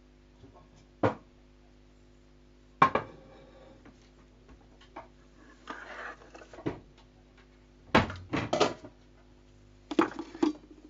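A few sharp knocks and clattering clinks a second or two apart, like hard objects being handled or set down, over a steady low hum.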